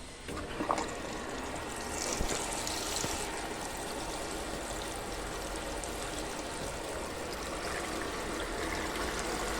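Consul Facilite 11 kg washing machine filling at the start of a wash: water running steadily into the tub. A short knock comes in near the start.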